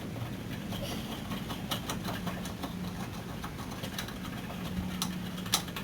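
Scattered light metallic clicks and clinks of hand tools and caliper hardware, with one sharper click near the end, over a steady low hum.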